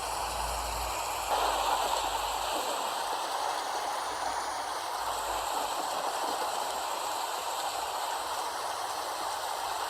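Steady rain falling, an even hiss that swells slightly a little over a second in.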